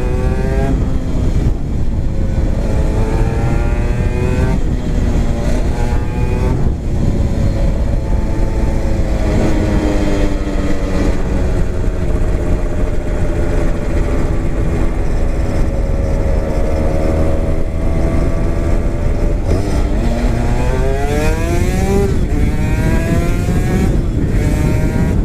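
Honda NSR250R two-stroke V-twin through a DOGFIGHT expansion-chamber exhaust, accelerating hard: the pitch climbs and drops back with each upshift several times in the first seven seconds. It runs at a steadier, slowly easing pitch for a long stretch, then climbs through more gears about twenty seconds in.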